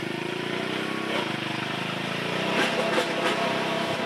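MTD lawn tractor's Briggs & Stratton 7 hp engine running steadily as the tractor is driven, with its pitch shifting a few times around the middle.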